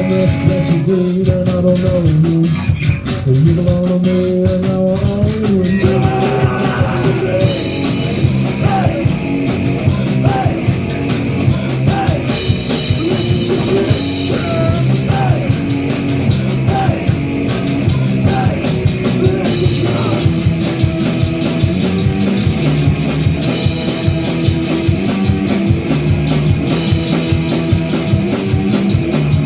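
Live rock band playing through a PA: electric guitar chords ringing on their own at first, then the drum kit comes in about six seconds in and the full band plays on with vocals.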